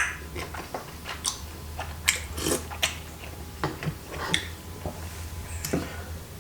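Close-miked chewing and wet mouth clicks of someone eating chewy Korean rice cakes (tteokbokki), in scattered short smacks.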